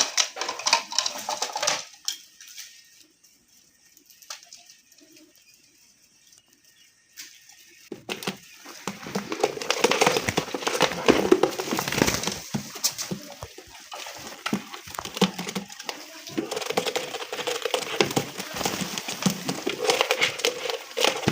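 Pigeons cooing and moving about, heard as an enclosed-room sound. After a quiet stretch of several seconds the sound becomes dense and continuous for the second half.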